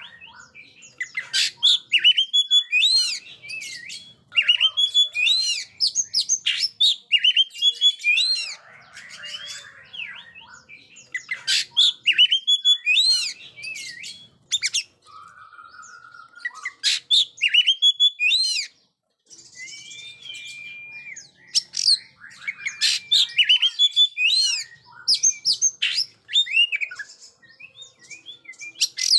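Oriental magpie-robin singing a loud, varied song of rapid whistles, trills and chirps, delivered in phrases with brief pauses.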